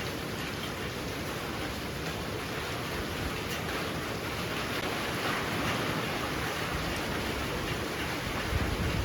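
Heavy rain pouring steadily, swelling a little louder about halfway through.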